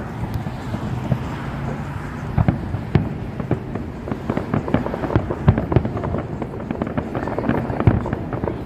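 Aerial fireworks display: a dense run of bangs and crackling, many sharp reports close together, with heavier booms about three seconds in and near the end.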